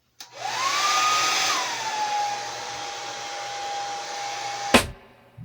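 Conair mid-size hand-held blow dryer switched on with a click: its motor whine rises as it spins up over a steady rush of air, then settles to a lower, quieter steady pitch after about two seconds. It is switched off with a click near the end and cuts out.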